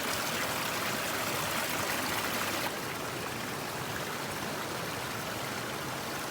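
Steady rush of flowing stream water. It drops a little in loudness and loses some of its hiss about two and a half seconds in.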